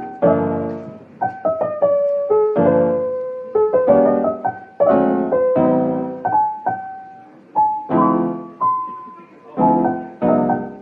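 Background piano music: chords and single notes struck one after another, each ringing and fading before the next.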